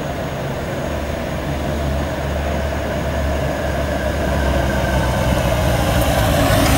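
A motor vehicle engine running with a steady low hum and a slowly rising pitch, growing louder toward the end as it approaches.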